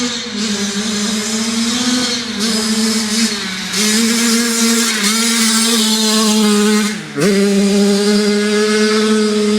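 Yamaha YZ85 two-stroke single-cylinder dirt bike engine held at high revs, dropping briefly several times as the throttle is chopped, most sharply about seven seconds in, and winding straight back up each time.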